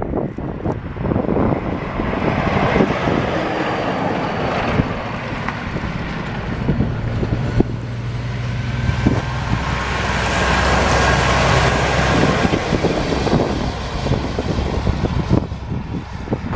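A heavy dump truck drives past with its engine running, loudest around the middle, with wind noise on the microphone.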